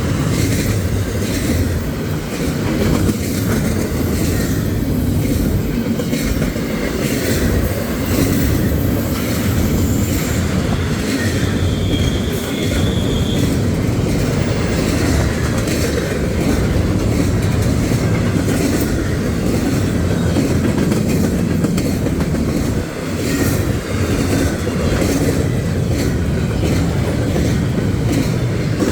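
Railroad cars rolling past: a steady loud rumble with a running rhythm of clicks from the wheels passing over rail joints, and a brief faint wheel squeal about twelve seconds in.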